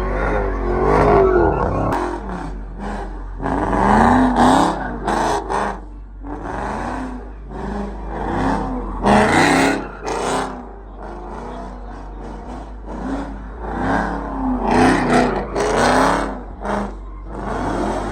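Car engine revving again and again, its pitch climbing and dropping, with loud noisy swells at each rev.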